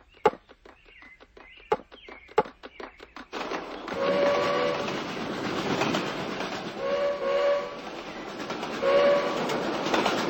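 Cartoon sound effect of Gumby's model train running: a run of clicks for the first three seconds, then steady chugging with short whistle toots three times.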